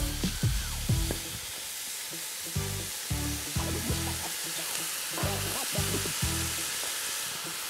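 Chopped vegetables sizzling steadily in hot sesame oil in a steel pan as soy sauce is poured in, with soft background music underneath.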